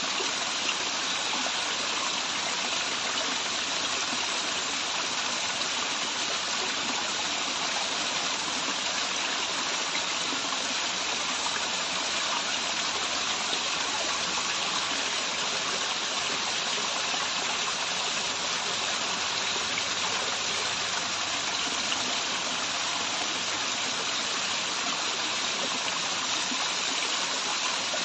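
Waterfall and stream water rushing steadily in a constant, even hiss.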